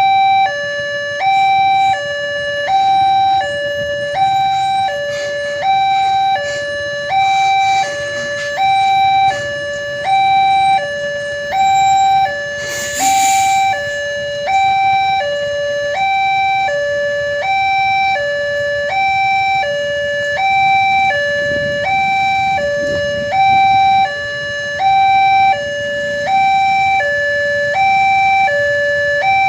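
Railway level-crossing warning alarm sounding a steady two-tone high–low signal, each tone lasting just under a second, warning that a train is approaching. A brief hiss cuts in about halfway through.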